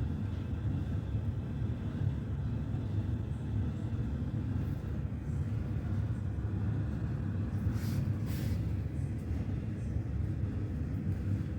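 Steady low rumble of a running vehicle, with two short hisses about eight seconds in.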